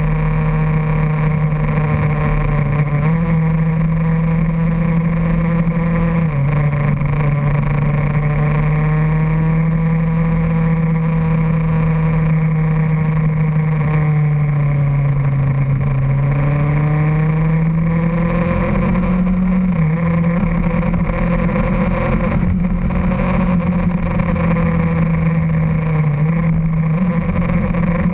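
Motorcycle engine running at steady cruising revs, heard from the bike itself with wind noise on the microphone. The engine note holds mostly level, dips briefly a few times, and sags then climbs back about halfway through.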